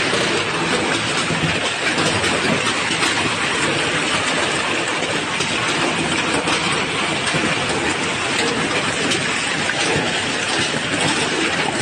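Heavy rain pelting down steadily: a dense, even hiss with many fine ticks.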